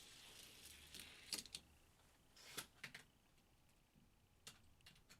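Near silence with a handful of faint, sharp clicks.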